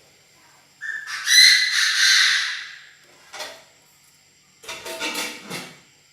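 Chinese francolin (đa đa) decoy bird calling loudly: a long, high-pitched call about a second in, then a shorter, rougher burst of calling near the end.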